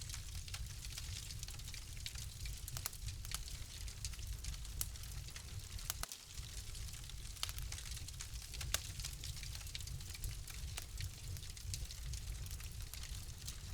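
Fire crackling in a fireplace: scattered sharp pops and snaps over a soft steady hiss and low rumble, with one louder pop about nine seconds in.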